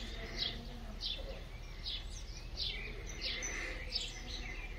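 Bird chirping over and over: short high chirps repeating about once or twice a second, with a softer lower warble about halfway through.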